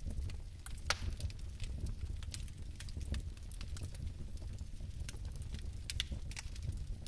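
Fire crackling: irregular sharp pops and snaps over a steady low rumble of flame, with a louder pop about a second in and another near six seconds.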